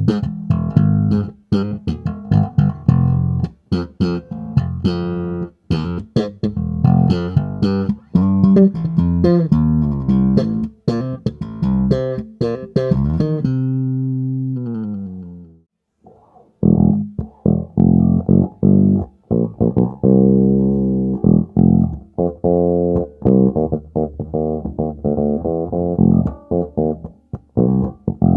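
Rebel Relic 1962 J-Series electric bass played solo, a line of plucked notes. About 13 seconds in, a held note slides down in pitch and dies away to a short silence. The playing then resumes with a darker, duller tone.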